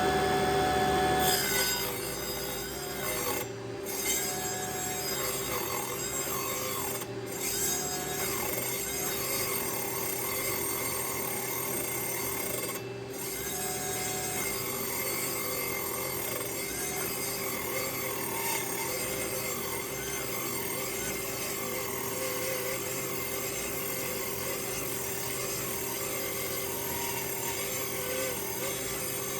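Mini 24-volt table saw running, its small belt-driven blade ripping a strip from 7/8-inch-thick black walnut: a steady motor hum under a continuous rasping, rubbing cut. About a second in the sound changes and drops in level as the blade bites into the wood.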